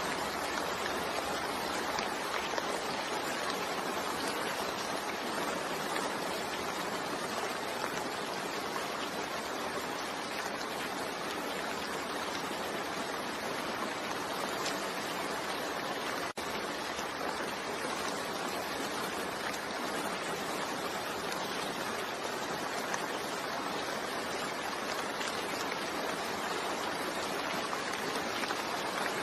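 Steady, heavy rain falling, an even hiss with no thunder, briefly dipping once about halfway through.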